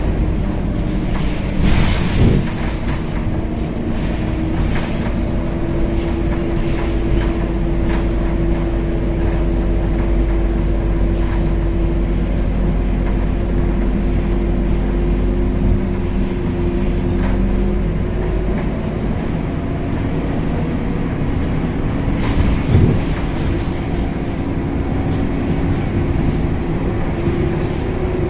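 Scania K270UB 12-metre city bus heard from inside while under way: the engine and drivetrain run with a deep rumble and a steady hum, and the body rattles. There are brief knocks about two seconds in and again past the twenty-second mark.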